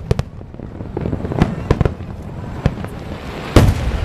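Aerial fireworks shells bursting: a run of sharp bangs with a deep rumble, irregularly spaced, and the loudest boom near the end.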